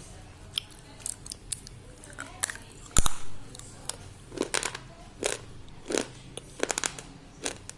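Thick white slate pencil being bitten and chewed: a run of sharp, crisp crunches, the loudest about three seconds in, then more crunches coming roughly every second.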